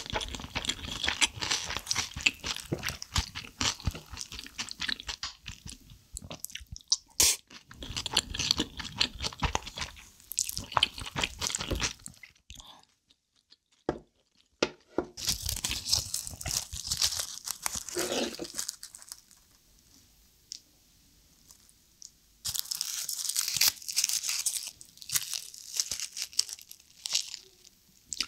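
Close-miked chewing and crunching of mouthfuls of rice with soy sauce marinated seafood, with crisp crackles, in bouts broken by two short quiet pauses.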